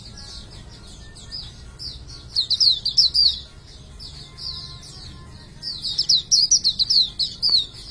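Hume's white-eye (Zosterops auriventer) singing: quick runs of high, fast chirping notes, with two long loud bursts about two and six seconds in and softer chirps between.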